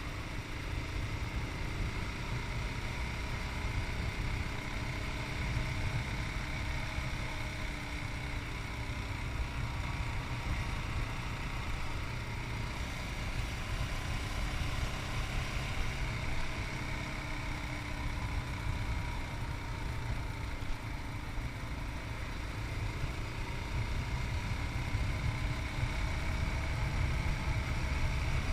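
Yamaha MT-03's 660 cc single-cylinder engine running while the motorcycle is under way, its pitch drifting a little up and down, under a heavy rumble of wind on a chest-mounted camera's microphone.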